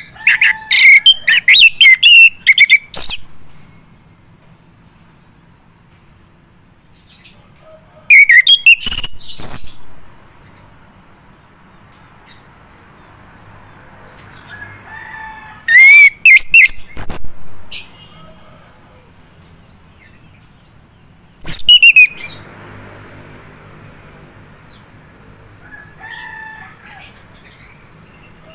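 Male chestnut-capped thrush singing in loud, rapid, varied phrases of high, quickly rising and falling notes, four bursts of one to three seconds separated by pauses of several seconds.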